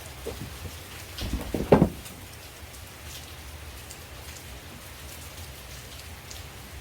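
Steady rain falling on leaves, with scattered drops ticking. Around a second and a half in, a brief cluster of knocks is the loudest sound.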